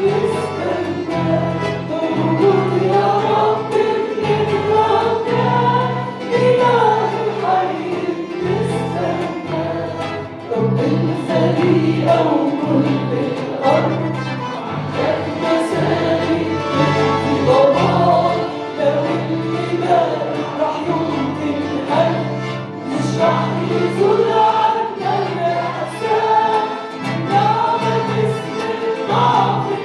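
Group of voices singing a worship hymn together over instrumental accompaniment, with a sustained bass line that changes note every second or so.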